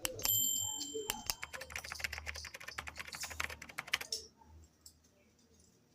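Rapid, dense clicking for about four seconds, with a brief high steady tone near the start, stopping suddenly.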